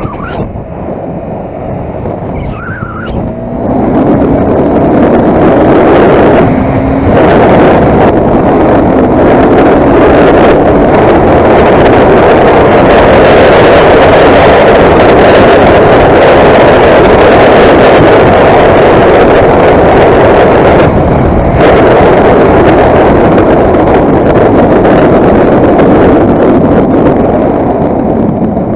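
Motorcycle engine and wind rush while riding. The engine pulls harder about four seconds in, rising in pitch, then the sound holds loud and steady, with two brief dips near seven and twenty-one seconds.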